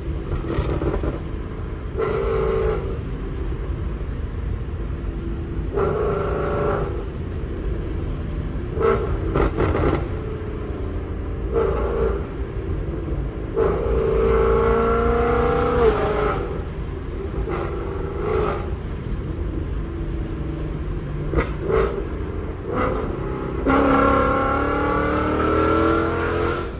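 Ford Mustang GT's 5.0 V8, breathing through long-tube headers and a Corsa Xtreme cat-back exhaust, accelerating hard through the gears: the revs climb and drop again and again. There are several sharp cracks around the shifts.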